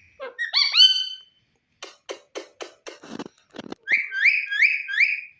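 Indian ringneck parakeet whistling: rising whistled notes, a pair about half a second in and a quick run of five near the end, with a few sharp clicks in between.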